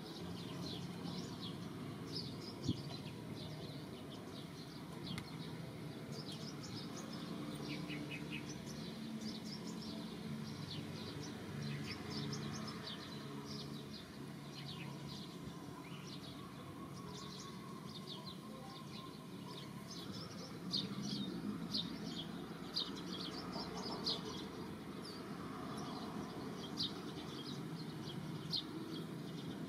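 Birds chirping: many short, high chirps scattered throughout, over a steady low background noise, with a few brief soft knocks.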